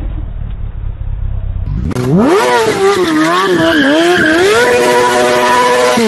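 Low rumble, then after a cut about two seconds in, a vehicle's loud high whine that sweeps sharply up in pitch and then wavers up and down.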